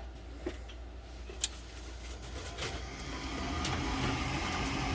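A sharp click about a second and a half in, then a gas furnace's draft inducer fan starting up: a steady motor hum that rises in pitch and grows louder as it spins up. This is the first stage of the furnace's start-up sequence.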